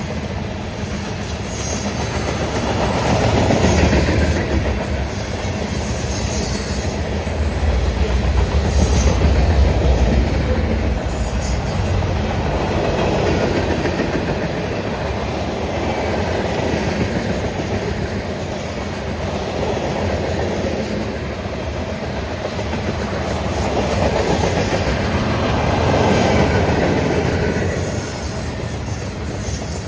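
A long freight train's cars rolling past close by: a steady rumble and clatter of steel wheels over the rails that swells and eases every few seconds as the cars go by.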